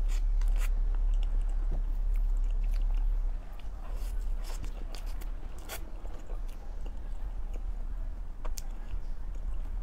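Close mouth sounds of a person eating soft crepe cake: chewing with scattered wet lip smacks. Under them runs a steady low hum that gets quieter about three seconds in.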